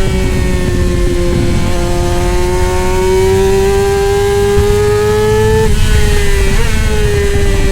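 Middleweight superbike engine at high revs, its pitch climbing slowly under acceleration. About two-thirds of the way through the pitch drops sharply, as at a gear change, then blips briefly a second later and eases down. A heavy low rumble runs underneath.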